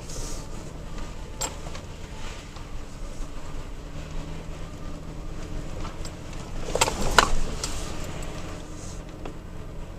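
A 3rd-gen Toyota Tacoma driving slowly over a rough dirt trail: steady low engine and tyre noise with scattered knocks and rattles. The loudest jolt, a cluster of clunks, comes about seven seconds in.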